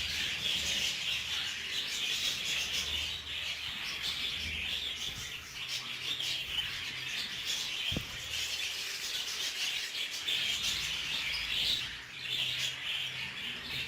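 A flock of budgerigars chattering and chirping continuously, a dense high twittering with no pauses.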